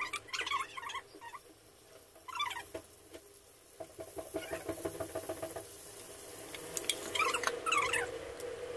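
Stuffed squid frying in a hot pan of masala: squeaky, chirping sizzles as the pieces go into the oil, crackling, then a steady sizzle building under the lid after a sharp click of the lid going on.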